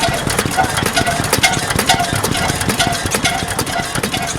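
3hp Richard Hornsby hot-bulb oil engine running steadily at slow speed, with a regular mechanical clatter and a beat about three times a second.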